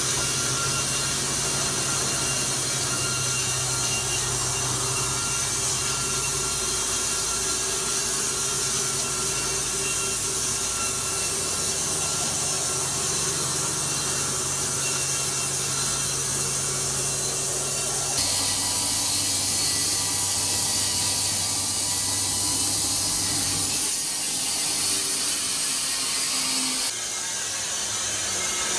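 Sawmill machinery running steadily as a saw cuts wood: a continuous high hiss over a low machine hum. The sound changes abruptly about two-thirds of the way through and again near the end.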